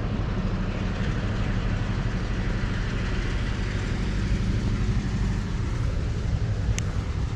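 A slow train approaching on the railway line, its engine giving a steady low rumble. A brief sharp tick sounds near the end.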